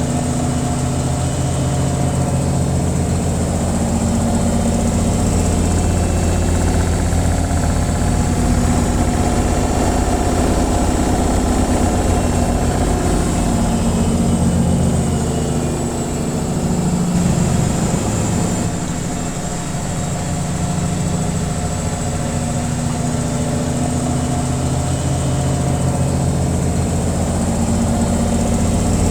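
Washing machine on its spin cycle: a steady motor hum and drum rumble, dipping briefly and shifting a little in pitch about halfway through.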